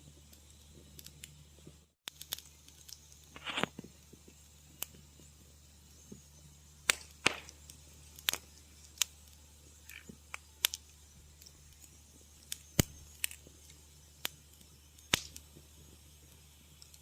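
Wood fire crackling in a fireplace: irregular sharp snaps and pops, a dozen or so strong ones among fainter ticks, over a low steady hum. The sound drops out briefly about two seconds in.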